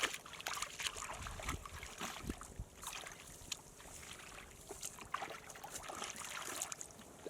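Water splashing and trickling in irregular small bursts, with scattered short clicks.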